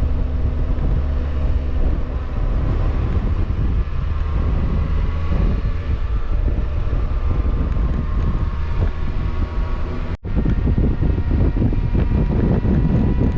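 Kawasaki Versys motorcycle engine running at road speed, with wind buffeting the microphone. The sound drops out for an instant about ten seconds in, then the engine and wind carry on.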